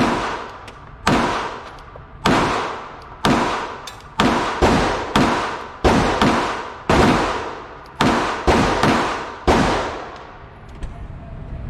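A string of about fourteen gunshots at irregular intervals, some in quick pairs, each followed by a short echoing decay; the firing stops near the end.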